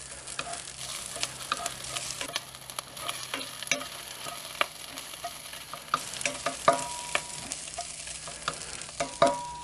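Ham chunks sizzling and frying in hot oil in a cast-iron Dutch oven, stirred with a wooden spatula: a steady sizzle with many small spattering and scraping clicks. Two louder knocks come in the second half, each followed by a brief high tone.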